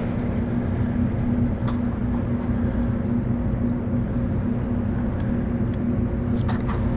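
A kayak's motor running steadily: a constant hum over a low rumble, with a few faint clicks.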